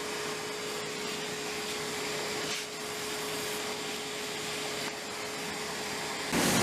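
CNC machine running a cutting program: a steady hiss with one constant hum. Near the end the hum stops and a louder, rougher sound takes over.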